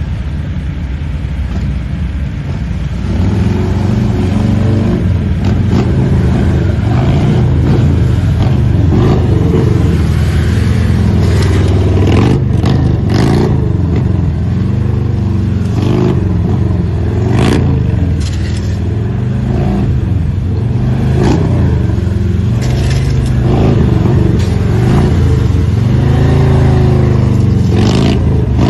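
Several police motorcycle engines running at low speed, revving up and down over and over as the bikes manoeuvre. The engines get louder about three seconds in, and there are brief sharp scrapes now and then.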